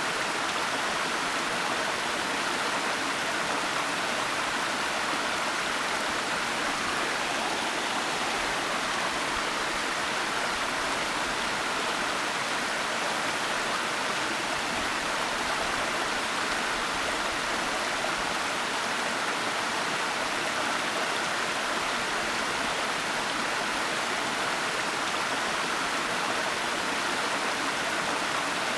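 Waterfall: a steady, unbroken rush of falling water that does not change in level.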